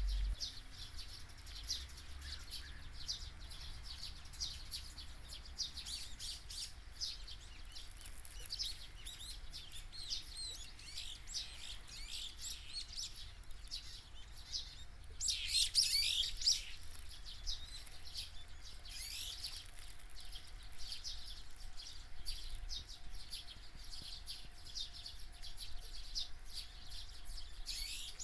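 A chorus of several wild birds chirping and singing, with many quick, high chirps overlapping. About halfway through a louder flurry of chirps lasts about a second.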